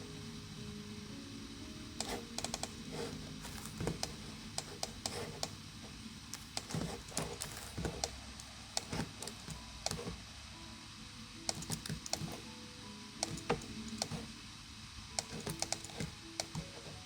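Soft background music with held notes, over irregular clicking of a computer keyboard being typed on throughout.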